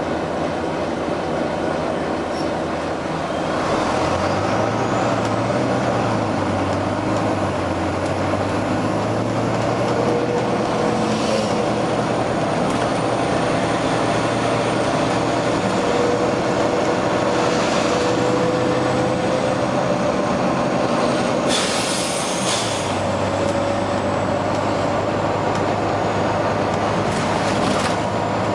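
Volvo B9TL double-decker bus's diesel engine running hard under load with a steady droning thrash that steps up a few seconds in. Short air hisses from the bus's air system come several times, the loudest about two-thirds of the way through.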